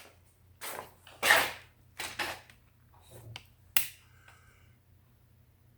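A few short scrapes and rustles of handling, then a sharp click just before four seconds in, over a low steady hum.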